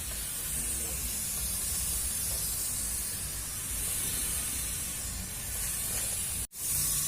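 Portable fogging machine running: a steady spraying hiss over a low engine drone. The sound drops out for an instant near the end.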